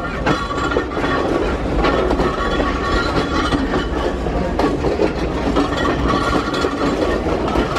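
Passenger train running on the rails, heard from an open carriage door: a loud, steady rumble with the irregular clatter of wheels over the track.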